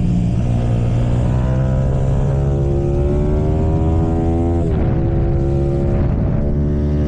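Symoto 140cc pit bike's single-cylinder four-stroke engine under hard acceleration. The pitch climbs for several seconds, drops at a gear change about two-thirds of the way through, then climbs again.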